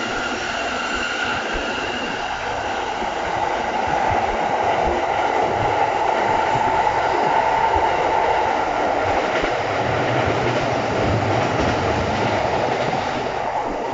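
Electric commuter trains running side by side at speed: a steady rolling rumble of wheels on rails, heard from aboard a moving train, getting louder about four seconds in and easing near the end.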